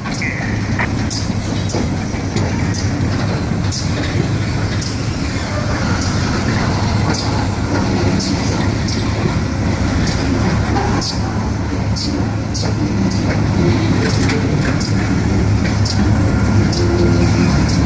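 Diesel locomotive and its work train running, a steady low engine rumble with sharp clicks from wheels over the rail joints.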